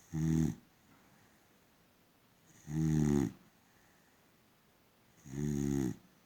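Boxer dog snoring in her sleep: three low, pitched snores about two and a half seconds apart, each lasting around half a second.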